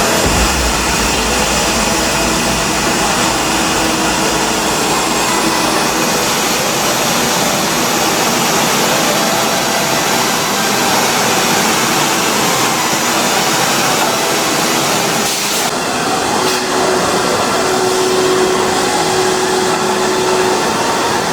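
Steady, loud whooshing machine noise, like industrial machinery or blowing air, changing in character about three-quarters of the way through.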